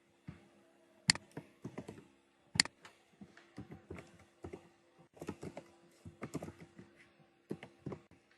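Typing on a computer keyboard: irregular keystrokes in quick runs, with two sharper, louder clicks about a second in and again about two and a half seconds in, over a faint steady hum.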